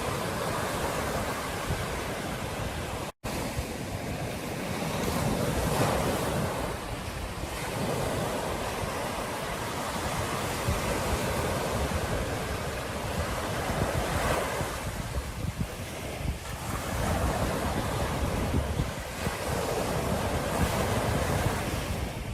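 Ocean surf breaking on a beach, the wash swelling and easing every few seconds, with wind rumbling on the microphone. The sound cuts out for a split second about three seconds in.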